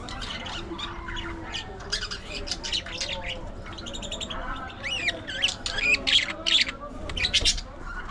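A flock of budgerigars chattering, chirping and squawking together, many short calls and warbling whistles overlapping, growing busier and louder a little past the middle.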